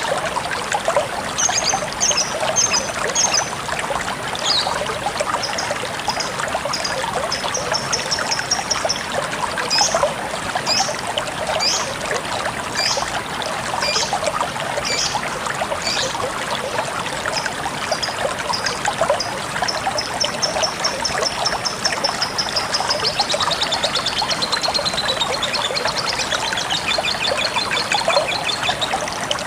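A lovebird chirping in quick runs of short, high notes and fast trills, with a falling trilled phrase near the end, over a steady trickle of flowing water.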